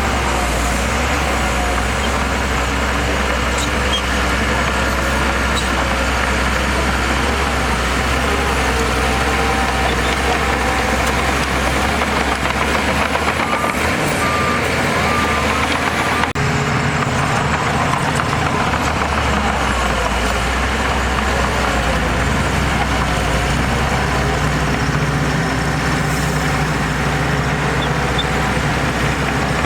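Heavy diesel earthmoving machinery running steadily, its engine note shifting a little past the halfway mark, with a few short beeps near the middle.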